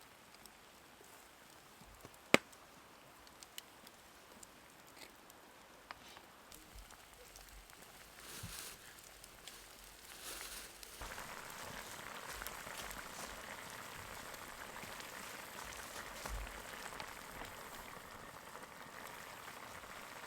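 Food begins frying in a hot pan about eleven seconds in, a steady sizzling hiss that continues from then on. Before that, a sharp click about two seconds in and a few faint ticks.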